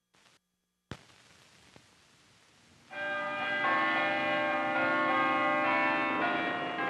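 Old optical film soundtrack: a single pop about a second in, faint hiss, then church bells ringing together from about three seconds in, many sustained tones overlapping and shifting.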